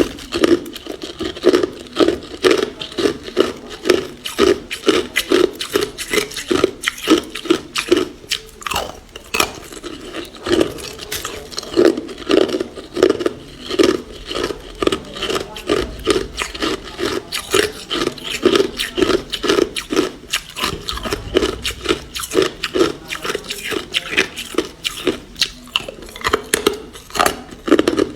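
Ice being chewed and crunched between the teeth close to the microphone, in a steady run of sharp crunches, about two to three a second.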